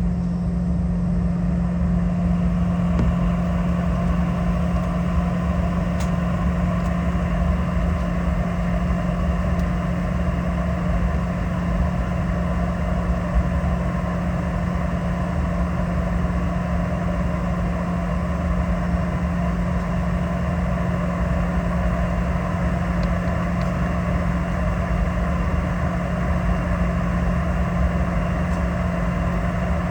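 Cabin noise inside a Boeing 717-200, its rear-mounted Rolls-Royce BR715 turbofans running at steady low power: an even rumble with a constant low hum, unchanging in level.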